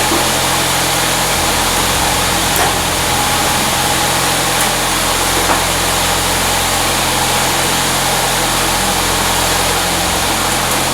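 A salvaged household furnace blower running steadily: a loud rush of air over a steady motor hum. Its intake is partly blocked off to hold the motor's current draw down. A few faint ticks come through the rush.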